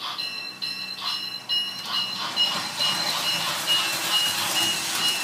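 Toy Thomas the Tank Engine train running and playing an electronic sound effect: a string of high two-note beeps, about two a second at first and then quicker, over a faint low hum.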